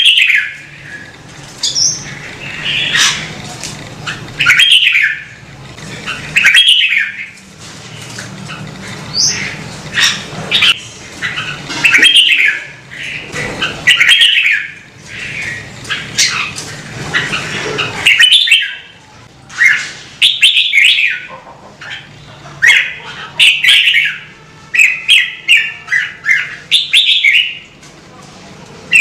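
Red-whiskered bulbul singing loud, short warbled phrases, one every second or two, with quicker runs of notes near the end.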